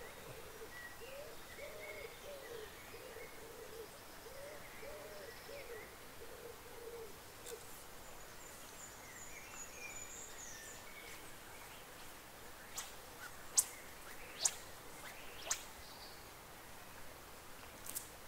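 A bird's low hooting calls, repeated over several seconds, with fainter higher birdsong behind them. A few sharp clicks follow later.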